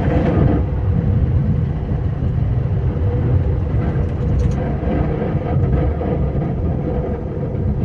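Scania R560 truck's V8 diesel engine running steadily under way, a continuous low rumble heard from inside the cab.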